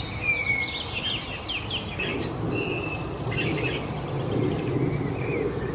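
Several songbirds chirping and singing at once, quick whistled notes and trills overlapping, over a steady low background noise that gets a little louder about two seconds in.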